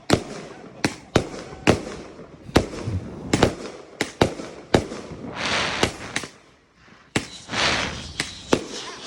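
Fireworks going off: about a dozen sharp bangs at irregular intervals, with two longer hissing bursts, one about midway and one near the end.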